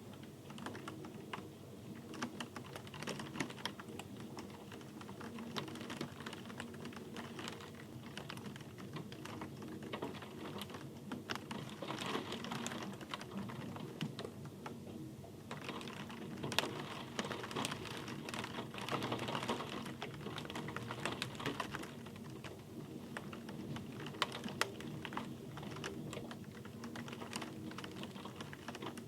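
Rain falling, with many separate drops ticking irregularly on a hard surface over a steady hiss.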